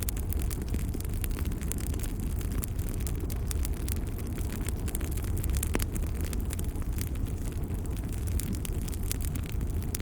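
Wood fire crackling, with many small sharp pops over a steady low rumble.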